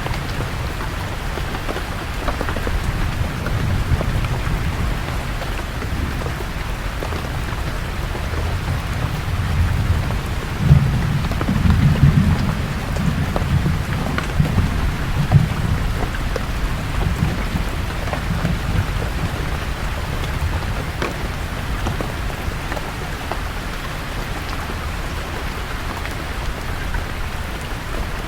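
Steady rain falling, with a low rumble of thunder that swells about a third of the way in, peaks sharply, and dies away over the next few seconds.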